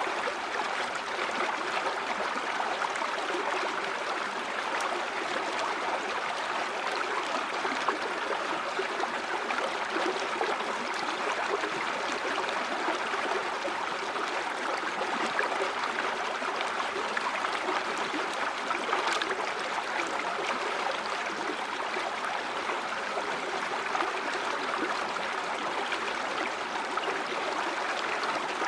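River water flowing steadily over rocks, a continuous rushing with fine trickling and gurgling detail.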